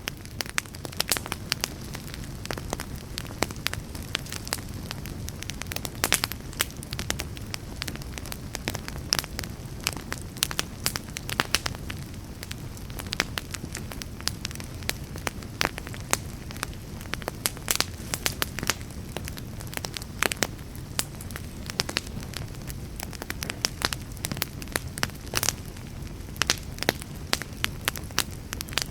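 Wood fire burning with a steady low rumble and constant irregular crackles and pops.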